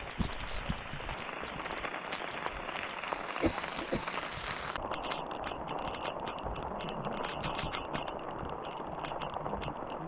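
Footsteps crunching on loose volcanic cinders and gravel: a steady, gritty scuffing while walking.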